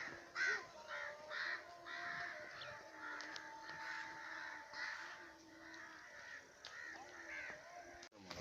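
Crows cawing repeatedly, about two harsh caws a second.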